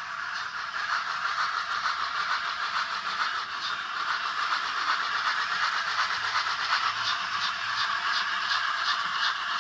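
Sound-fitted Dapol N gauge A4 model steam locomotive running, its sound decoder playing steam hiss and a steady beat of chuffs, about two to three a second, through the model's tiny speaker.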